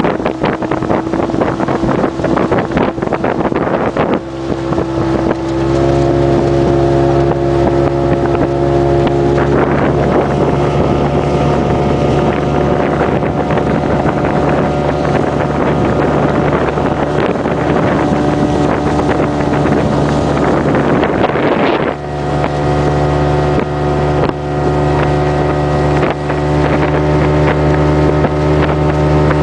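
Small motorboat's engine running steadily under way, over wind and water noise. The engine note shifts about five seconds in and again briefly around twenty-two seconds.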